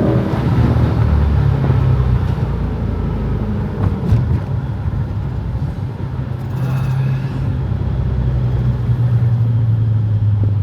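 Car engine running with a steady low drone, holding even over the last few seconds, with a brief tick about four seconds in.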